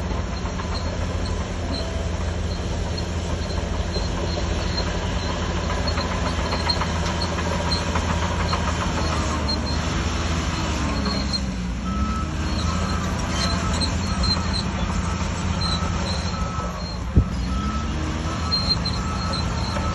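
Heavy diesel earthmoving machinery running steadily, its engine pitch dipping and rising twice under changing load. A repeating beep comes in during the second half, and a single sharp knock sounds near the end.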